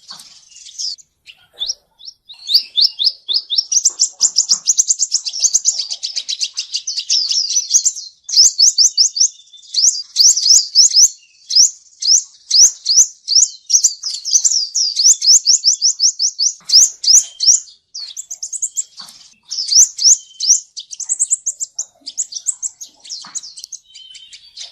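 Male sunbird (the 'seven-colour sunbird') singing: fast runs of thin, high, sweeping chirps in long trilled bouts with short pauses between them, played as a trapping lure.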